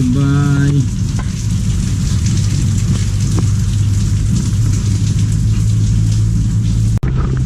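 Steady heavy rain falling, an even hiss throughout, over a continuous low hum.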